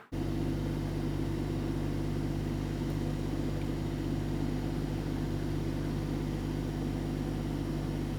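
Suzuki Jimny JB64's 660 cc turbocharged three-cylinder engine running at a steady speed with an even, unchanging hum.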